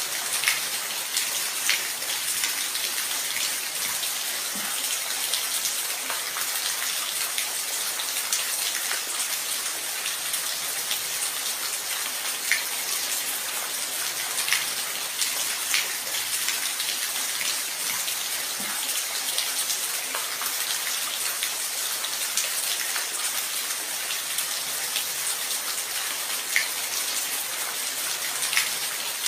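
Steady rain, a dense even hiss with scattered sharper drops ticking through it.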